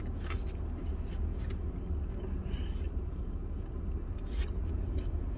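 Mouth-closed chewing of a fried chicken sandwich, heard as a few faint soft clicks, over a steady low hum inside a parked car.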